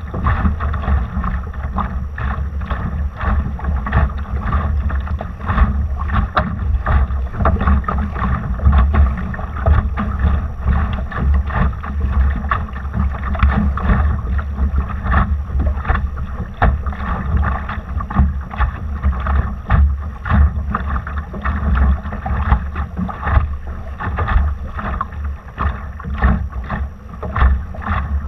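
Water rushing and splashing against a Laser sailing dinghy's hull as it sails, in many short irregular slaps, with a constant low rumble of wind buffeting the microphone.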